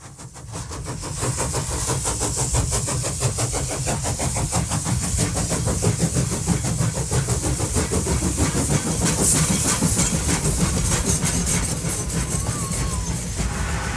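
A small motor running steadily with a rapid, even clatter and a hiss, building up over the first second.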